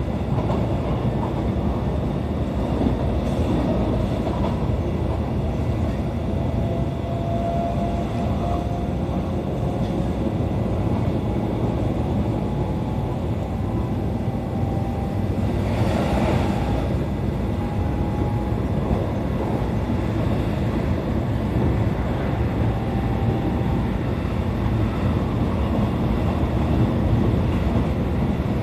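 Running noise of a JR East E531 series electric train heard from inside the car: a steady rumble of wheels on rail, with a faint thin whine through the middle. A short swell of noise comes about sixteen seconds in.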